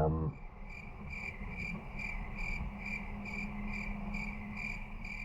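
Cricket chirping in a steady rhythm, about two chirps a second, over a faint continuous trill and a low steady hum.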